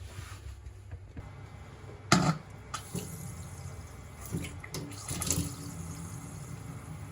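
Water running from a kitchen faucet, with a sharp thump about two seconds in and a cluster of clicks and clatter around five seconds.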